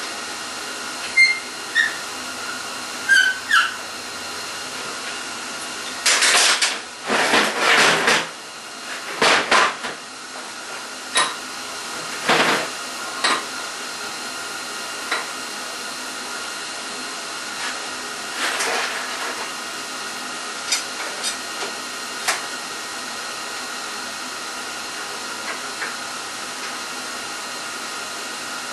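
Gas-shielded MIG welder laying short welds: several loud one- to two-second bursts of arc crackle, most in the first half, over the welder's steady hum. A few sharp metallic clicks come in the first few seconds.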